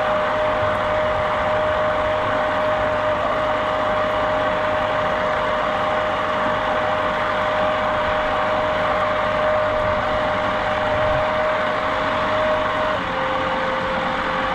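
A boat motor running steadily, with a steady whine that drops a little in pitch near the end.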